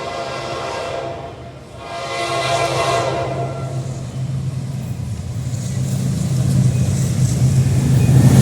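General Electric diesel locomotive sounding its horn in two blasts, the first ending about a second and a half in and the second lasting under two seconds, followed by the locomotive's engine drone growing louder as the train approaches.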